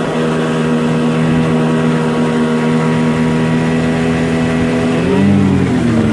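Small 8-horsepower boat motor running steadily under load against a strong current, then revving up and dropping back about five seconds in.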